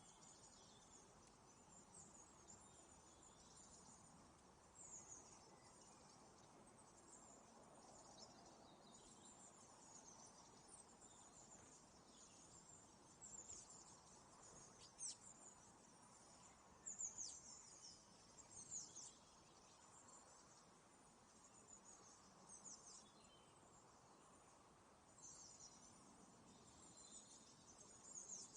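Faint, high-pitched chirps of small birds, coming irregularly as short falling notes, busiest around the middle.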